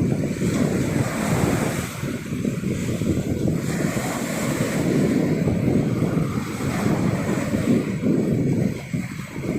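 Sea surf washing on a beach, mixed with wind gusting against the microphone; a continuous low, fluctuating noise with a brief dip near the end.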